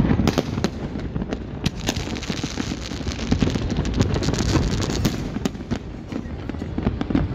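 Fireworks display: a rapid, irregular run of sharp bangs and crackles from bursting shells over a continuous low rumble.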